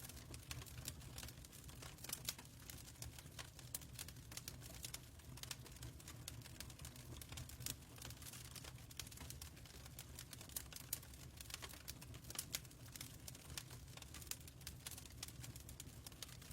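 Wood fire crackling, with dense irregular pops and snaps over a low steady rumble.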